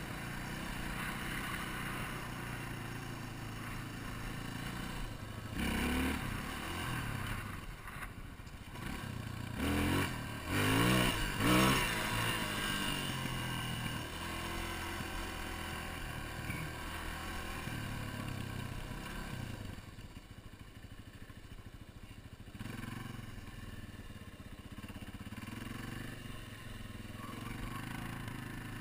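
Yamaha TTR250's air-cooled single-cylinder four-stroke engine running under throttle, revving up and back down in bursts about six seconds in and twice around ten to twelve seconds in, the loudest moments. It drops lower and quieter about two-thirds of the way through, then picks up again.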